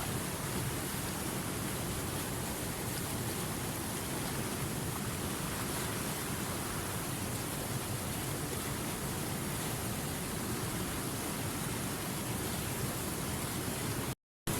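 River water running in a steady, even rush. The sound cuts out for a split second near the end and then resumes.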